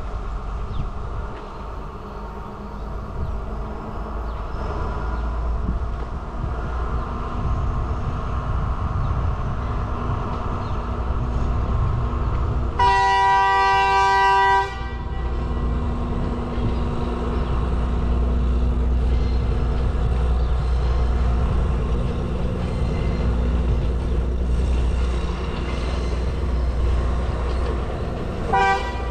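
Elle Odyssey train running on the mountain line with a steady low rumble that grows louder as it approaches. Its horn sounds one long blast of about two seconds halfway through, and a brief toot near the end.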